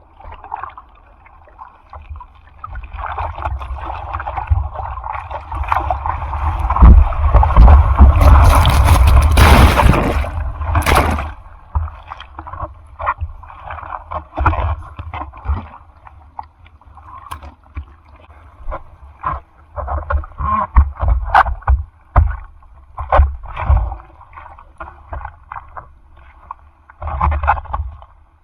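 Seawater splashing and rushing close to the microphone in typhoon surf: a long surge of whitewater builds from a few seconds in to its loudest around eight to ten seconds, then dies into irregular short splashes.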